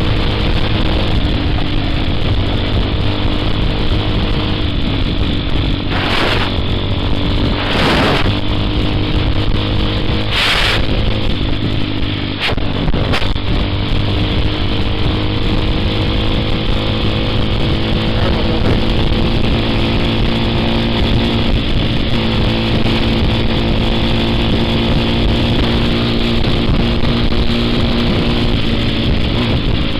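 TaoTao TBR7 229cc single-cylinder dual-sport dirt bike engine running under way, its pitch slowly rising and falling as speed changes. Three short bursts of noise cut across it about six, eight and ten seconds in.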